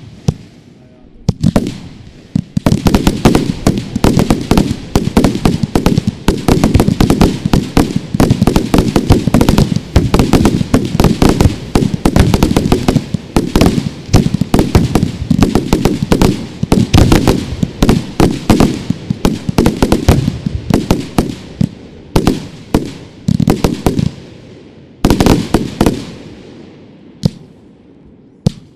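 Fireworks going off: a few separate bangs, then about two seconds in a dense, rapid barrage of cracks and bangs that runs for some twenty seconds before thinning to a few single bangs near the end.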